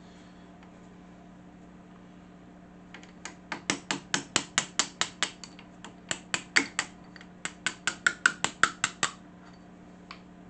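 Hammer rapidly tapping on metal, several strikes a second in three runs with short pauses between, with a slight ring, knocking a part of an old table saw loose. A steady low hum runs underneath.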